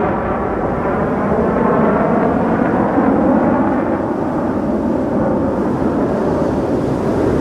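Jet aircraft engine noise, a loud steady rumble.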